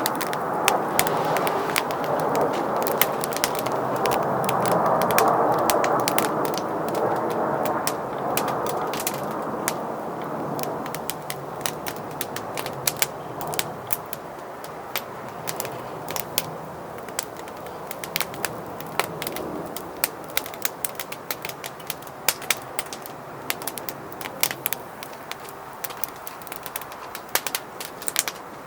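Wood fire burning in a Solotour fire pit, with sharp crackles and pops throughout. A rushing noise under them is loud for the first eight seconds or so and then dies down.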